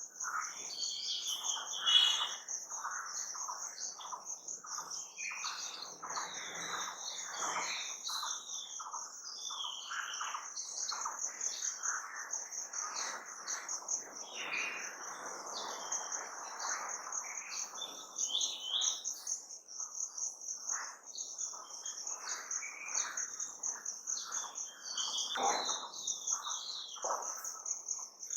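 A chorus of wild birds chirping and singing, with many short overlapping calls, over a continuous high pulsing trill like an insect.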